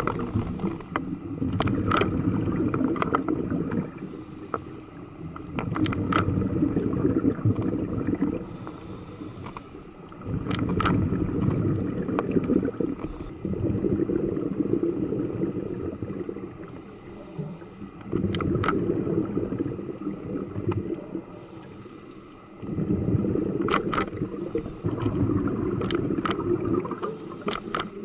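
Scuba diver breathing through a regulator underwater: a short hissing inhale, then a few seconds of bubbling exhaust, repeating about five times. Scattered sharp clicks sound throughout.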